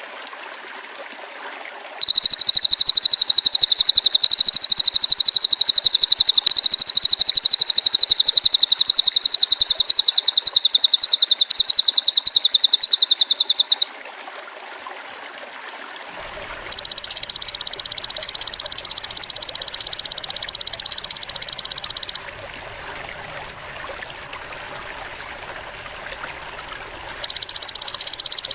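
Masteran recording of cililin and belalang emas calls. A loud, high, very rapid buzzing trill lasts about twelve seconds. After a pause comes a somewhat lower buzzing trill of about five seconds, and another starts near the end.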